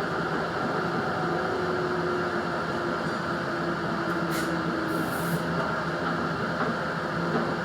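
Cabin noise of an Adelaide Metro 3100 series diesel railcar running along the line: a steady drone of the engine and wheels on rail, with a hum that drifts slightly in pitch.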